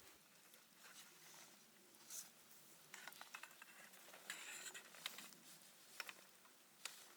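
Near silence with faint scattered ticks and soft rustles, busiest in the second half.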